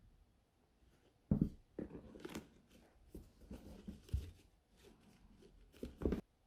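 Handling noise from a sneaker unboxing: irregular rustling, crinkling and light knocks, loudest about a second in and again near the end.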